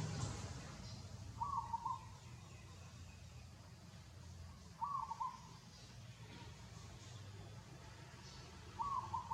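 A bird calling: a short two-part call repeated three times, about three and a half seconds apart, over a faint steady low hum.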